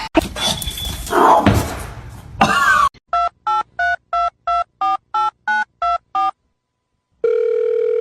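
A few seconds of mixed noise, then a phone keypad's dialling tones: about ten short two-note beeps, roughly three a second. After a brief silence a steady telephone line tone sounds for about two seconds.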